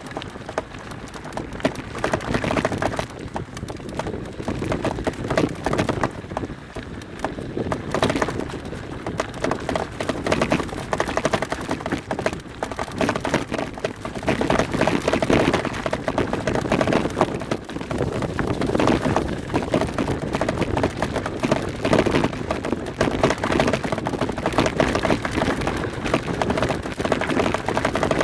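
Mountain bike riding a rough trail: tyres crunching over stones and dry leaves, and the bike rattling in dense, irregular clicks and knocks.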